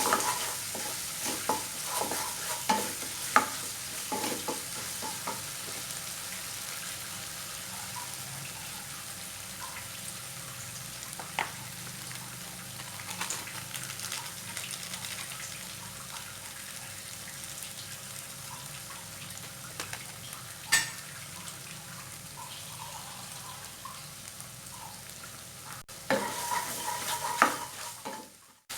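Food sizzling in a hot pan as it is stir-fried, with a spatula knocking and scraping against the pan, more often in the first few seconds and again near the end.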